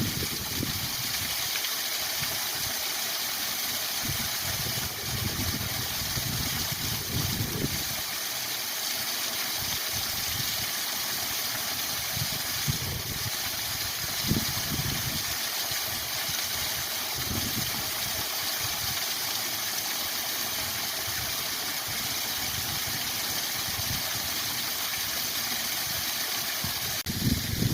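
Steady rushing of a waterfall, with irregular low rumbles coming and going underneath.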